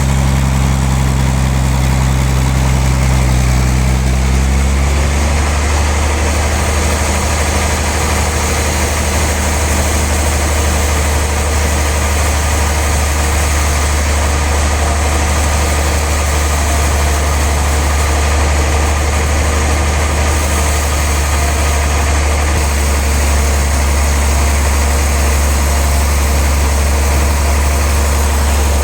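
Sawmill machinery running with a loud, steady low drone. A lower pitched hum in the sound drops away about five seconds in.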